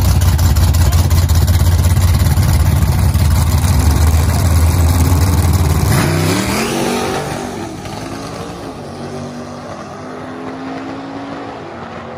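Drag-racing engines at the starting line: a loud, steady low rumble from the staged third-generation Chevrolet Camaro, then both cars launch about six seconds in. The engine note rises in pitch as they accelerate away down the strip and fades with distance.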